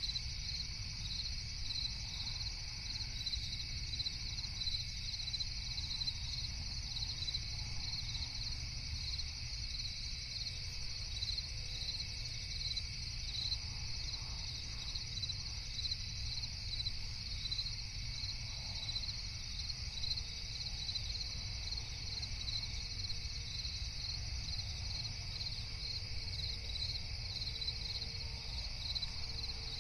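Night chorus of crickets: a continuous high trilling with a regular pulsed chirp about twice a second, over a low steady rumble.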